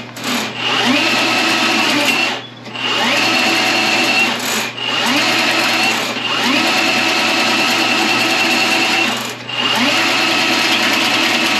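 Milwaukee M18 sectional drain machine running, its motor spinning the 7/8" cable in the drain line. The motor cuts out briefly several times and whines back up to speed after each stop.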